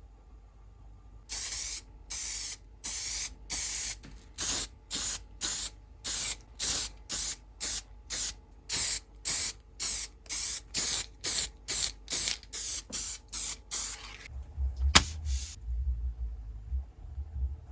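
Spray paint hissing out in short bursts, about two a second, as a part is coated in quick passes. The spraying stops near the end, and a low rumble and one sharp click follow.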